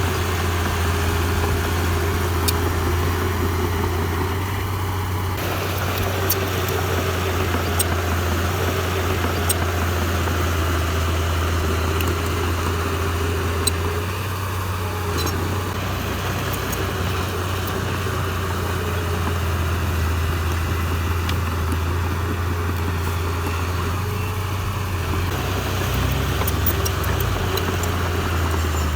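Diesel engine of a heavy earthmoving machine running steadily with a constant low hum, with scattered sharp clicks and knocks over it.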